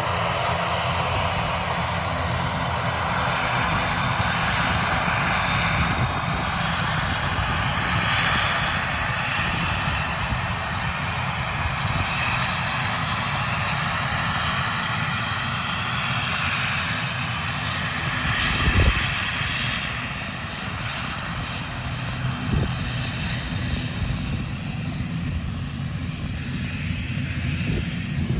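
An airliner's engines running loud and steady, a broad rushing roar that swells and eases slightly. A short low thump comes about two-thirds of the way through.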